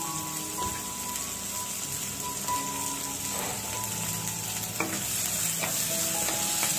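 Chopped onion and garlic frying in hot sesame oil in a pan, sizzling steadily as it is stirred, with a couple of sharp taps on the pan about five seconds in.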